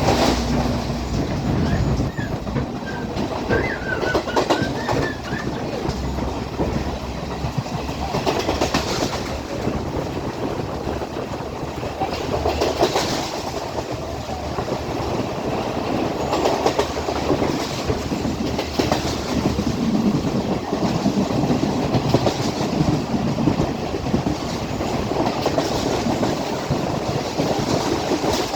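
Class S12 diesel multiple unit running along the line with a continuous rumble, its wheels clattering over rail joints every couple of seconds.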